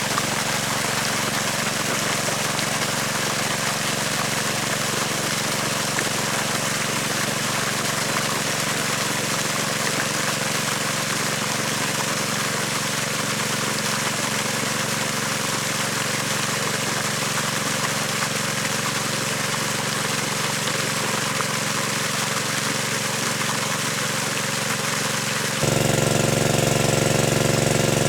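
An engine running steadily. About 25 seconds in it cuts abruptly to a louder, rougher running sound.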